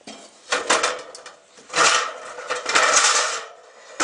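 Handling noise: a quick run of knocks and clunks, then two longer scraping, rustling stretches.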